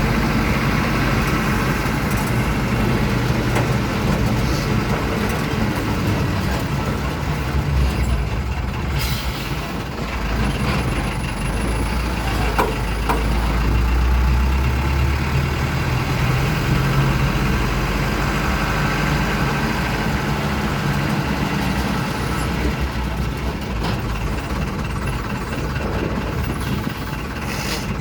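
Truck engine running under way, a continuous drone that swells and eases, heaviest in the low end for several seconds around the middle.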